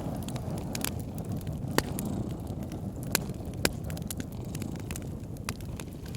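A cat purring steadily close up over a crackling wood fire, with scattered clicks and three louder pops near the middle.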